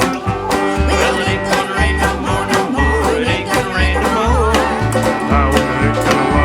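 Country-bluegrass band playing an upbeat song: banjo and guitar picking over a low bass note on each beat, with a wavering melody line a little past four seconds in.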